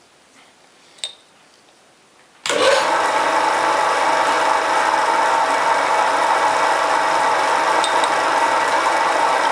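Homemade mini lathe's 750 W single-phase electric motor switching on about two and a half seconds in and running steadily with a hum of several steady tones, after a single sharp click about a second in.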